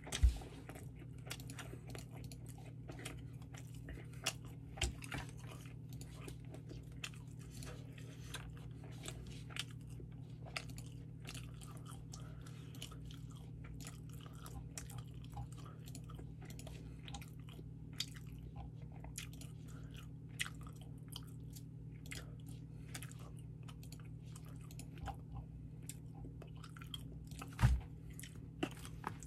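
Close-miked chewing of sushi: many small wet mouth clicks and smacks over a steady low hum. A dull thump comes right at the start and another near the end.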